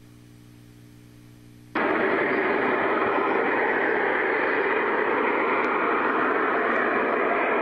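A low electrical hum, then suddenly a loud, steady roaring rush of noise: high-pressure gas venting from a pipeline, heard from a distance.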